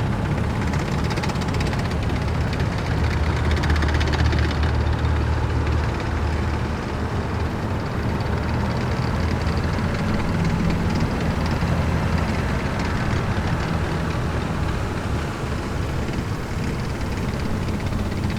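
Heavy military vehicles driving past in a column, a continuous low engine drone with road noise that swells as vehicles pass, loudest about three to five seconds in and again around ten to twelve seconds.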